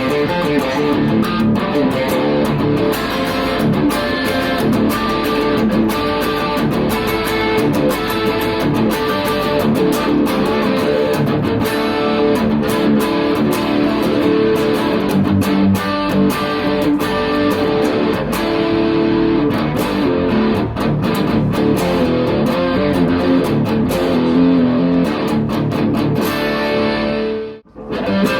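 PRS SE McCarty 594 Singlecut electric guitar played through an amp: a continuous run of picked notes and chords. Near the end the sound cuts out abruptly for a moment, then a few notes ring on.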